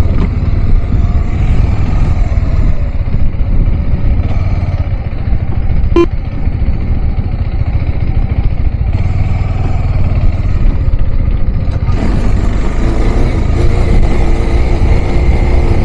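Motorcycle riding along, its engine and the wind picked up through a Maono external mic with a foam sponge and a furry windscreen: a steady, loud low rumble. There is a short click about six seconds in, and the noise grows brighter about twelve seconds in.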